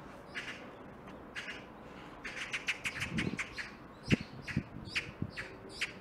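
Small birds chirping: short, high chirps, sparse at first and then a quick run of them from about two seconds in, with a few soft low knocks underneath.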